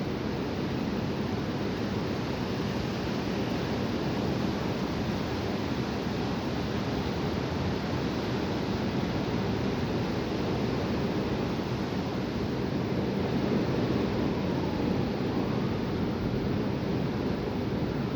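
Strong wind blowing in a steady, unbroken rush.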